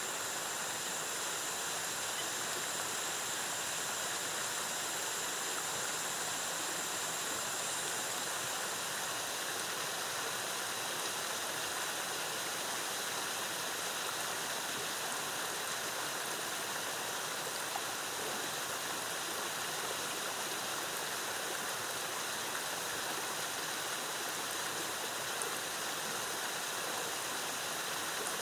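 Waterfall, cascading water rushing steadily.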